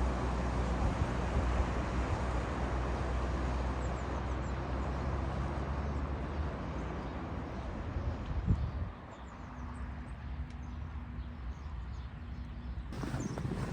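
A vehicle engine running steadily, then stopping with a thud about nine seconds in, after which faint bird chirps are heard.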